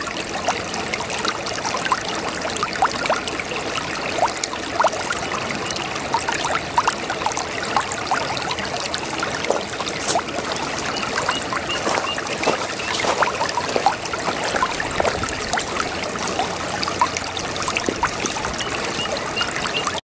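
Shallow brook babbling, a steady rush of flowing water with many quick little gurgles and splashes over it. It cuts off suddenly just before the end.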